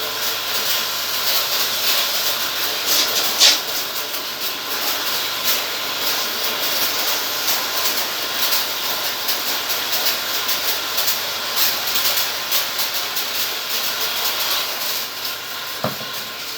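Steady hiss of a water spray jet washing an air conditioner unit, with irregular spattering.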